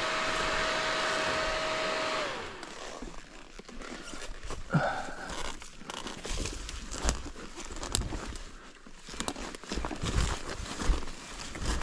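Dirt bike engine running steadily with a held whine, then cutting off about two seconds in. After that come irregular crunches and knocks, like footsteps and handling on rocky ground.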